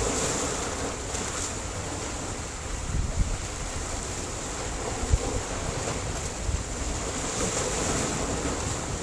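Sea surf breaking against a rocky shore, a steady wash of waves with a few short low thumps about three and five seconds in, and wind buffeting the microphone.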